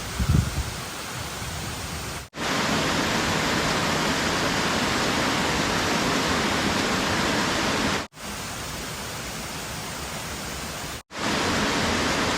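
Steady rush of cascading water from Beaver Brook's waterfalls, heard in four short clips cut together, so the level drops out and jumps at each cut. A brief low thump sounds just after the start.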